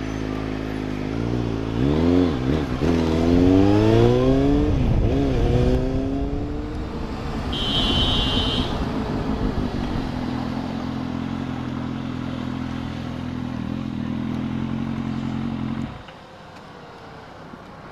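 Motorcycle engine idling, blipped up and down several times in the first few seconds, then settling back to a steady idle before being switched off abruptly near the end. A brief high-pitched beep is heard about halfway through.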